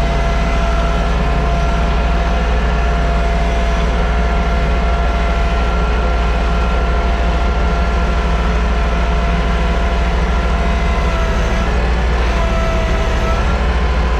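TYM T224 subcompact tractor's diesel engine running steadily, with a constant high whine over a heavy low rumble.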